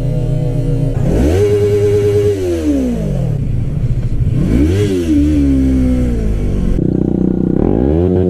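Motorcycle engine running steadily, then rising in revs and easing back off, three times over.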